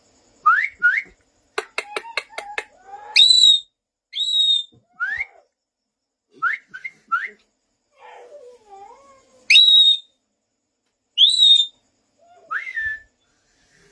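Pet parrot whistling: a string of short, sharp rising whistles, with a quick run of about six clicks about two seconds in and a lower, wavering call around the middle.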